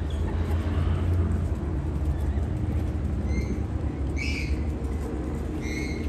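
Steady low rumble throughout, with a few short bird calls, one about three seconds in and a stronger one about four seconds in.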